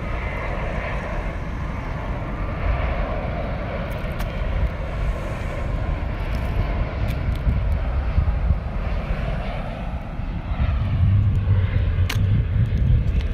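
A Boeing 787's Rolls-Royce Trent 1000 jet engines on its landing, a steady rumble that grows louder about ten seconds in.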